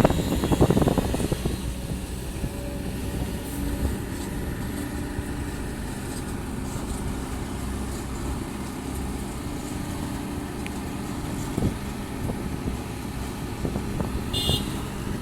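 Kobelco SK200-10 excavator's Hino J05E four-cylinder diesel engine running steadily. A brief high squeak near the end.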